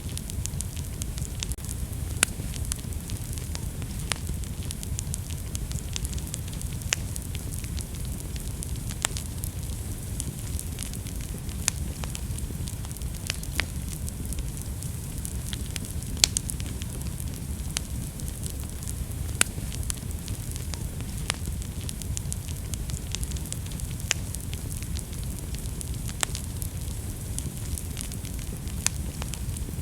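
Wood fire burning in a fireplace: a steady low rumble and hiss of the flames with sharp, irregular crackles and pops every second or two.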